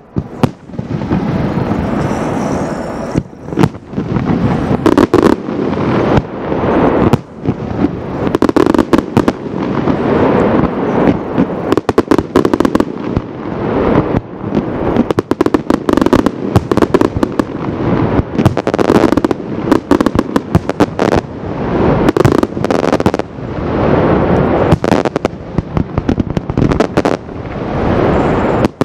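Aerial fireworks display firing a dense barrage: rapid, overlapping bangs from bursting shells mixed with crackling, with no break.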